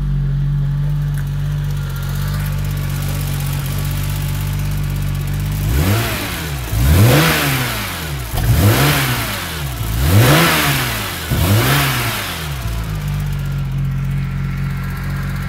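BMW E34 M5's straight-six with a Scorpion exhaust idling steadily, then revved four times in quick succession about six seconds in. Each rev rises and falls in pitch before the engine settles back to idle. It is heard from beside the open engine bay.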